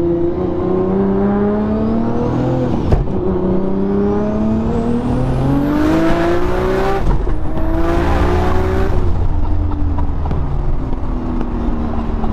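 A 1000 hp Nissan Skyline R33 GT-R's stroked 2.8-litre RB26 straight-six, heard from inside the cabin, accelerating hard through the gears. The engine's pitch climbs, drops at gear changes about three and seven seconds in, and climbs again, with a thin high whistle rising alongside, then runs steadier near the end.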